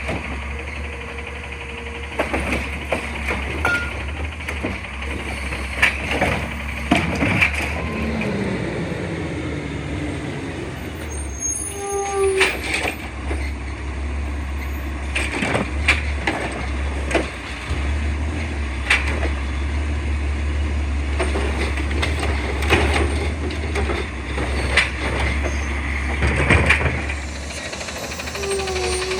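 Garbage truck engine running steadily, with repeated knocks and bangs of trash being collected, a short rising-and-falling whine about a third of the way in, and air-brake hiss.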